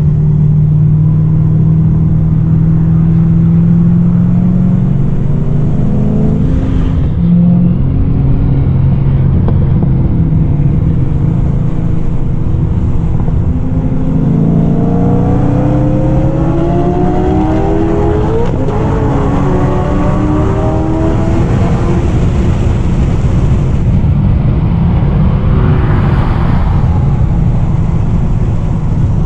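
Car engine and exhaust running hard on a race track. The revs hold steady for the first few seconds, then rise and fall through the middle.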